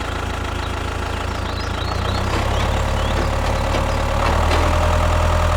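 DIY mini tractor's motor running steadily with a low hum, getting a little louder, with a faint whine coming in past halfway.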